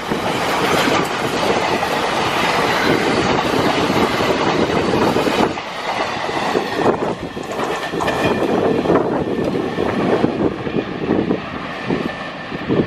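Indian Railways train passing close by: a continuous loud rush of noise with many closely spaced knocks from the wheels on the track, easing off briefly about midway and again near the end.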